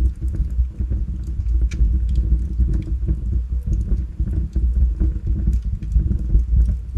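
Wood fire burning in a fireplace: a steady, flickering low rumble of the flames with many small crackles and pops from the logs scattered throughout.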